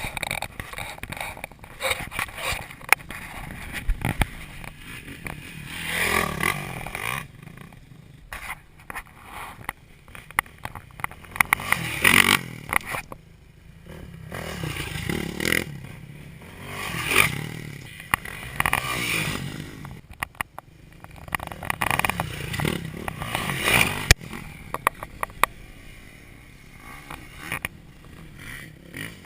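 Dirt bike engine revving in repeated surges every few seconds, rising and falling, with frequent sharp knocks and scrapes.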